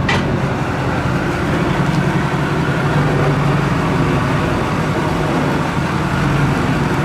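A motor vehicle's engine running steadily, a few seconds after being started, with a steady low hum.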